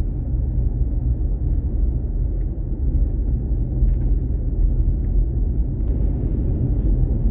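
Pickup truck driving on a dirt road, its steady low road and engine rumble heard from inside the cab, with a few faint ticks.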